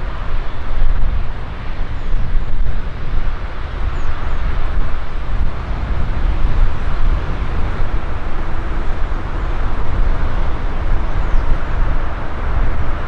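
Jet airliner engines running, a steady, loud rumble.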